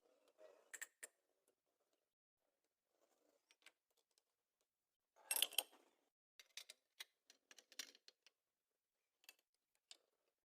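Faint scattered clicks and light rattles of small objects being handled, with a brief louder clatter about five seconds in.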